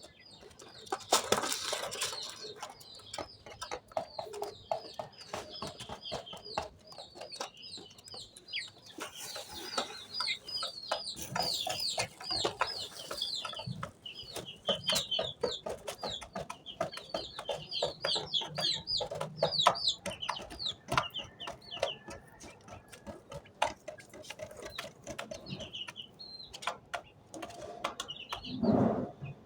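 Quail pecking at and scattering its food, a stream of quick sharp taps, with long runs of short high-pitched peeps repeated several times a second. A louder, lower call comes near the end.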